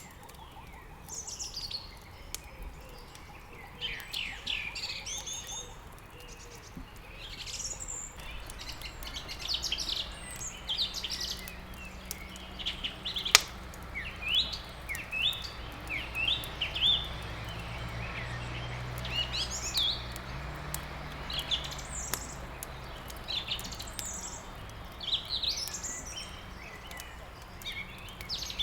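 Songbirds chirping and twittering, many short calls overlapping throughout, with a single sharp crack about thirteen seconds in.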